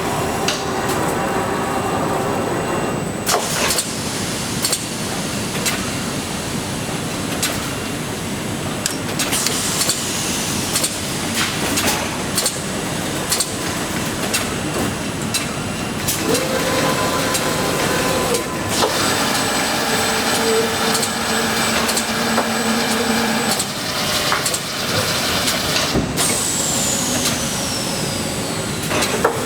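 Production machinery on a motor-factory floor running steadily, with frequent clicks and knocks and short hums that start and stop. A high whine falls in pitch about ten seconds in and again near the end.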